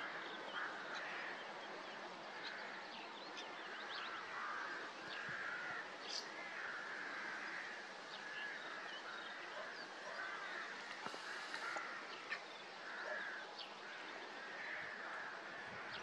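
Birds calling outdoors: repeated short calls and scattered quick high chirps over a steady background hiss.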